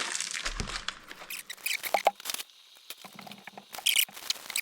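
Plastic shrink bags of butchered chicken being handled: scattered light crinkles and clicks with a few short squeaks, and a soft low thump about half a second in.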